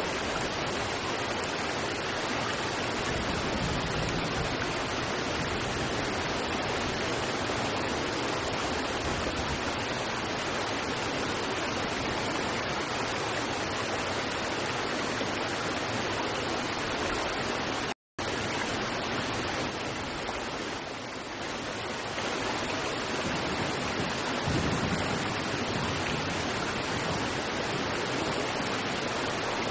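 River water rushing steadily over rocks, an even broad rush that cuts out completely for a split second about 18 seconds in.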